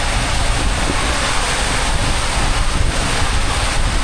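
Water rushing along a water-slide flume under a riding raft, with wind buffeting the microphone: a steady, loud rush of noise.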